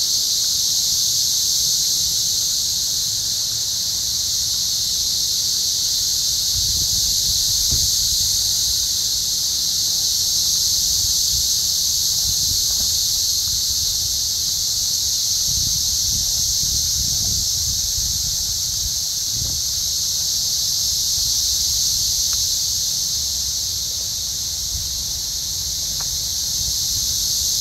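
A dense chorus of cicadas singing in the trees: a steady, unbroken high-pitched drone.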